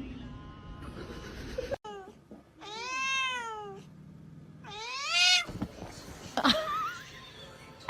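A cat meowing: one long, drawn-out meow that rises and falls in pitch about three seconds in, then a second, shorter meow that rises about two seconds later.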